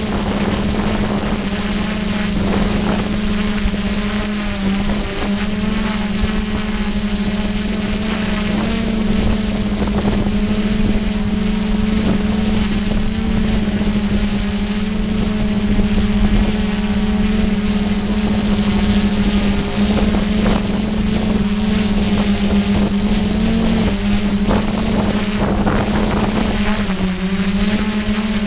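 DJI F550 hexacopter's brushless motors and propellers buzzing steadily in flight, the pitch stepping up and down a little several times as the throttle changes, with wind noise over it.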